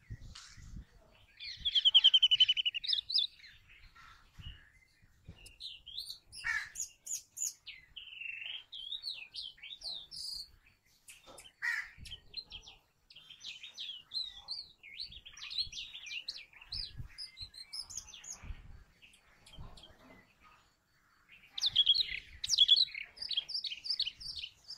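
Brown rock chat calling: bursts of quick, high chirping notes, loudest about two seconds in and again near the end, with scattered shorter calls in between.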